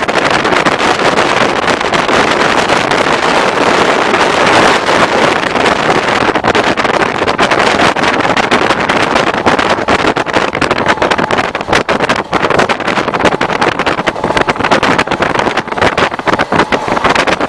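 Diesel-electric multiple unit (DEMU) train running, a loud, steady rushing noise with rapid clatter, mixed with wind buffeting the microphone.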